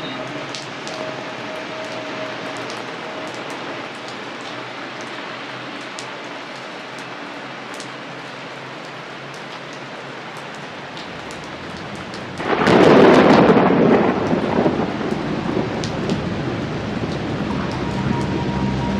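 Steady rain falling, with scattered drops ticking. About twelve seconds in, a loud clap of thunder breaks, and a lower rumble carries on under the rain.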